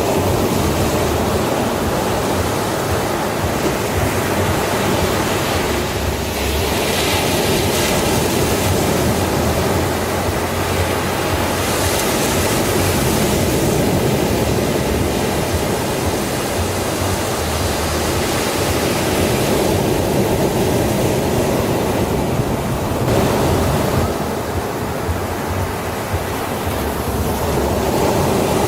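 Sea waves breaking and washing up a beach, a continuous hiss of surf that swells and eases, with fuller surges about 7, 12 and 21 seconds in.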